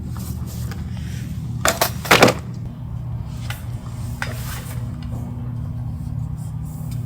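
Two sharp clattering knocks about two seconds in, with a few fainter ticks, over a steady low hum.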